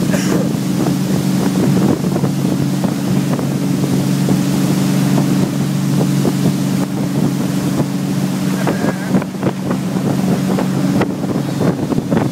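Motorboat engine running steadily at speed, a constant low hum, with wind buffeting the microphone and a rush of water.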